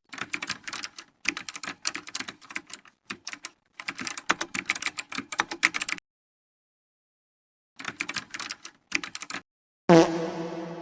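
Typing on a computer keyboard: quick runs of key clicks in several bursts, with a pause of nearly two seconds about six seconds in. A short pitched tone starts near the end.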